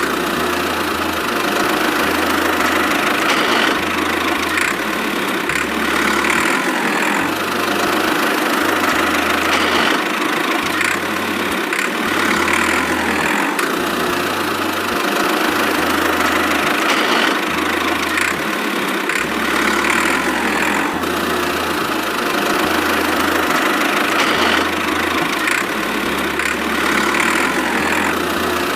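Small engine of a homemade mini tractor running steadily at a constant speed.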